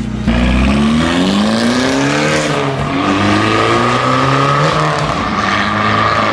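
Abarth 500's 1.4 T-Jet turbocharged four-cylinder accelerating hard. The revs climb, drop once about two seconds in at a gear change, then climb again.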